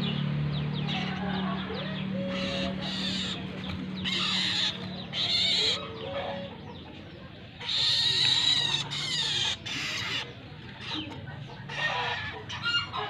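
Birds calling in a series of short, harsh calls at irregular intervals, the loudest about eight seconds in.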